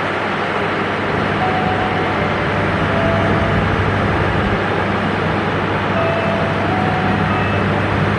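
Long passenger train's coaches rolling over the rails through a curve: a steady rumble of wheels on track with a low hum under it and a few brief, faint high squeals.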